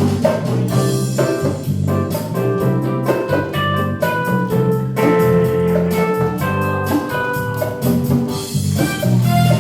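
Live band playing an instrumental passage, drum kit keeping a steady beat under sustained chords.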